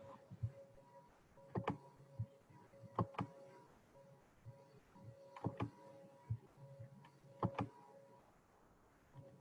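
Faint, scattered clicks and light knocks, about a dozen, some in quick pairs, over a faint steady hum.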